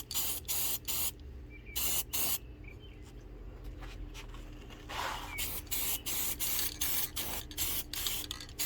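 Aerosol spray paint can sprayed in a series of short, quick bursts of hiss, with a pause of a few seconds in the middle before a longer run of bursts.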